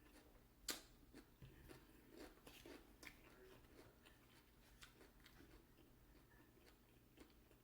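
Faint chewing and crunching of fried chicken close to the microphone, small scattered mouth clicks, with one sharper click under a second in.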